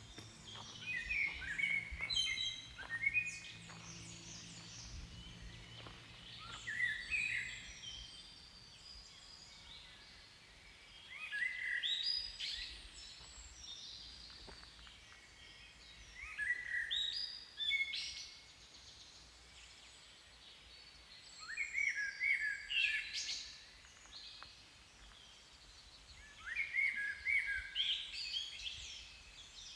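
A songbird singing short, quick chirping phrases, one about every five seconds, over quiet outdoor background.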